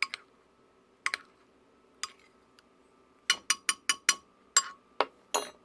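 Utensil clinking and tapping against cookware in separate sharp strikes, with a quick run of about five taps a little past halfway.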